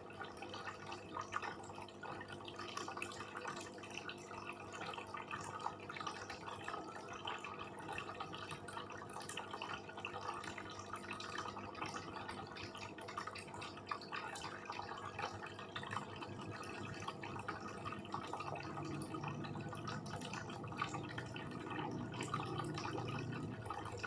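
Close-miked eating sounds: wet chewing and lip smacking, a steady stream of small clicks, over a faint steady background hum.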